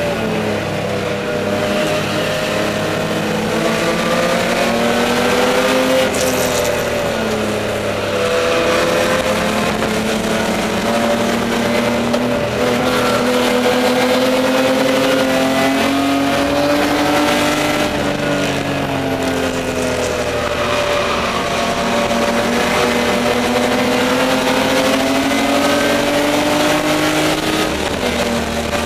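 BMW E30 race car's straight-six engine running hard at high revs, heard from inside the stripped cabin. Its pitch climbs and falls again and again as the driver works through the gears and corners, with a clear drop in revs near the end.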